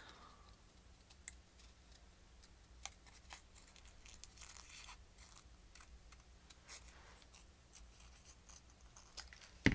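Scissors cutting paper: faint, irregular snips with light paper rustling.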